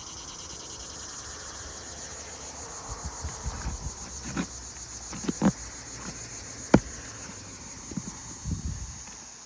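Insects chirring in a steady, pulsing high drone, over scraping and knocks of a tool prying a nail out from under an asphalt shingle, with a sharp snap about seven seconds in.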